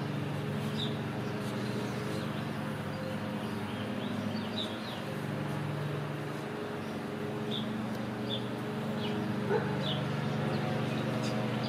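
Birds chirping, short sharp chirps every second or so, over a steady low hum.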